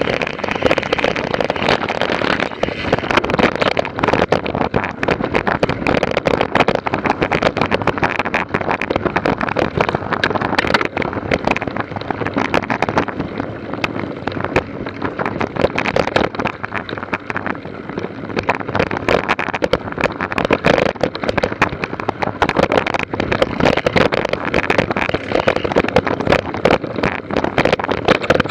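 Continuous dense rattling and crackling with wind buffeting the microphone, the noise of a moving recording over rough ground.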